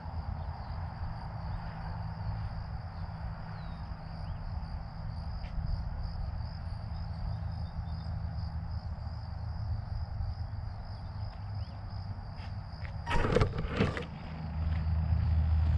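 Insects chirring steadily over a low steady hum. Near the end come two short, loud, rushing bursts, and then the hum grows louder.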